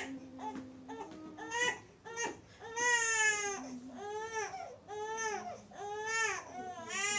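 Infant crying in a series of rising-and-falling wails, about six or seven cries with short breaths between them, the longest about three seconds in.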